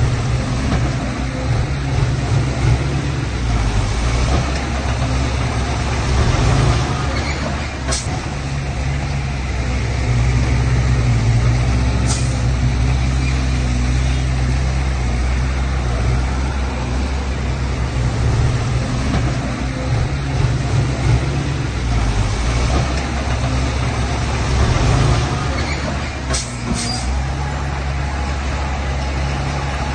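Heavy diesel earthmoving machinery running steadily under load, with a low engine drone throughout. A few brief high-pitched sounds cut through it, one about eight seconds in, one about twelve seconds in, and two close together near the end.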